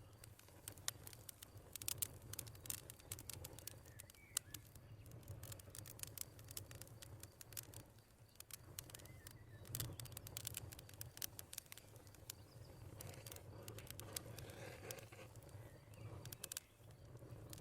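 Wood fire crackling in a fireplace: irregular sharp pops and snaps over a low, steady hum.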